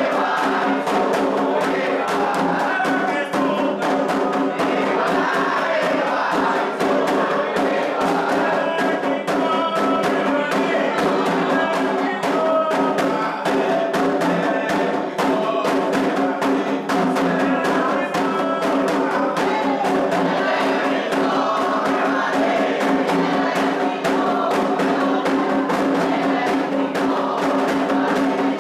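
Candomblé atabaque drumming in a fast, steady rhythm, with a group singing a chant for the orixá Ewá.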